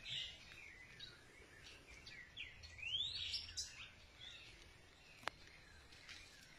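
Birds chirping and calling, a run of quick whistled notes sweeping up and down, busiest about three seconds in. A single sharp click about five seconds in.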